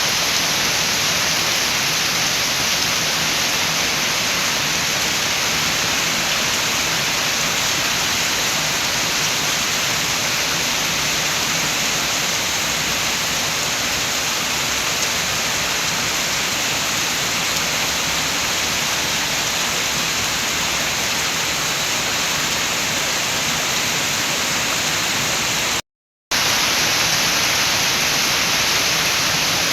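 Steady rain with wind: an even, unbroken hiss with no separate drops standing out. It cuts out completely for about half a second near the end.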